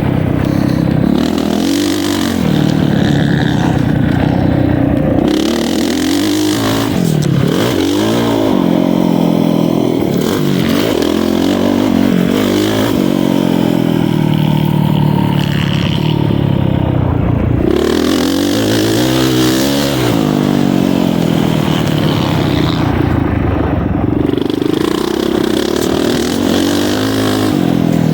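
Motocross dirt bike engine revving up and dropping off again and again as the bike is ridden around the track, the pitch rising and falling many times.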